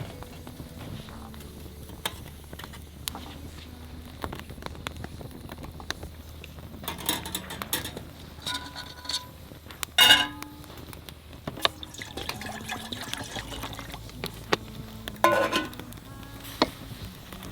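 Liquid being poured and cookware being handled, with scattered small clicks and knocks; the loudest knock comes about ten seconds in.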